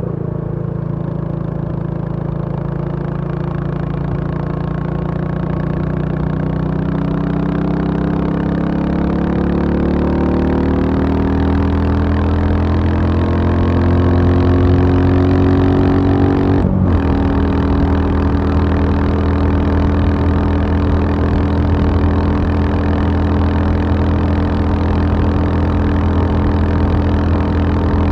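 Royal Enfield Bullet 350 single-cylinder engine running, its pitch rising slowly and steadily as engine speed builds. About two-thirds of the way through there is a brief break, after which it runs at a steady pitch.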